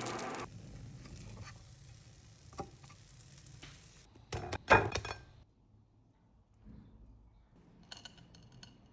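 Kitchenware clinking and knocking: a steady noise cuts off about half a second in, then a few scattered clicks, and a sharp clatter of several hits about four and a half seconds in, with a few faint clicks near the end.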